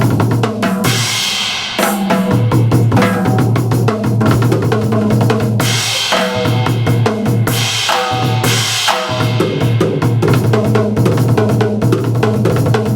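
Band music driven by a drum kit: fast snare and bass-drum beats with repeated cymbal crashes over a sustained low bass line.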